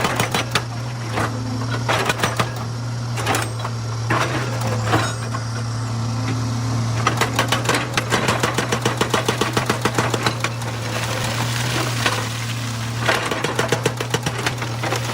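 Excavator's diesel engine running steadily while a hydraulic rock breaker hammers stone in rapid bursts of about seven blows a second, the longest burst in the middle.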